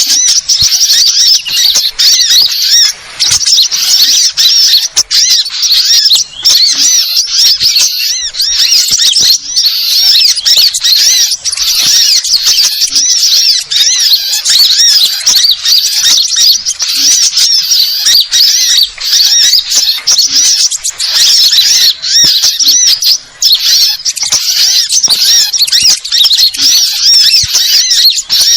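A dense chorus of sunbirds and other small birds calling at once: rapid, high-pitched chattering and twittering calls overlapping without a break, loud and steady. This is the 'burung ribut' (noisy birds) sound used as a lure to draw small birds in.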